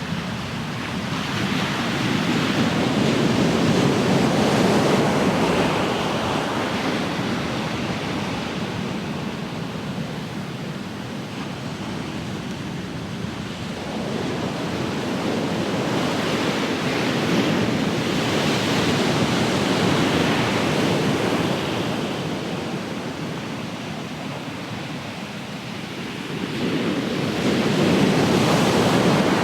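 Ocean surf: waves breaking and washing up the shore, a steady rushing that swells and fades in slow surges about every ten to twelve seconds.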